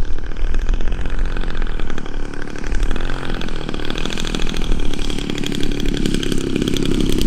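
Desert Aircraft DA-100 twin-cylinder two-stroke gas engine of a giant-scale RC plane running at low throttle on landing approach, growing louder toward the end.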